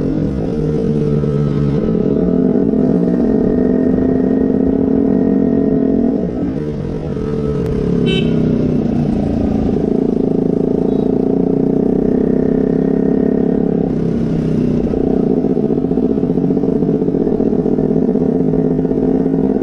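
KTM 125's single-cylinder four-stroke engine running through an aftermarket Akrapovič exhaust, holding fairly steady revs. The revs drop briefly about six seconds in and pick up again, with a smaller dip near the end.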